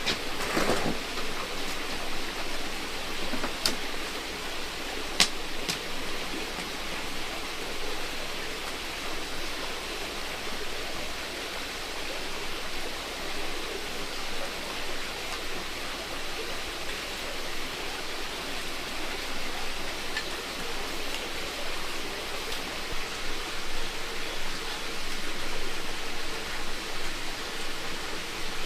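Heavy rain falling steadily, with two sharp clicks a few seconds in.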